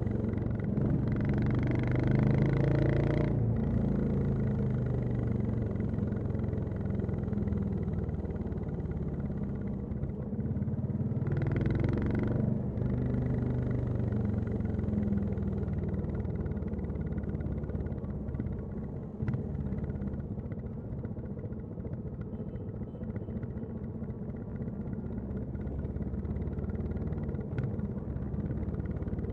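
Royal Enfield Classic 350's single-cylinder engine and exhaust running steadily while riding in traffic. Two brief rushes of louder noise come about a second in and about eleven seconds in.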